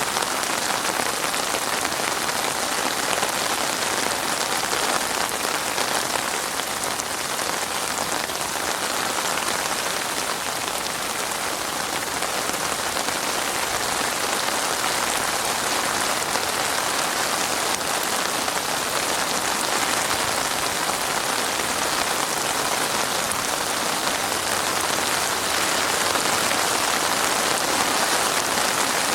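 Heavy rain falling steadily on a surface, a dense even hiss of countless drops with no let-up.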